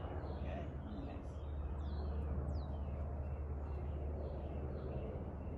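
Small birds chirping, with a couple of quick falling whistled notes about two seconds in, over a steady low rumble.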